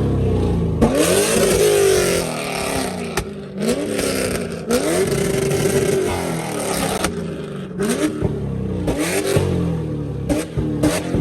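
Car engine revving hard again and again, its pitch climbing in quick sweeps about five times, with sharp cracks and pops near the start and near the end.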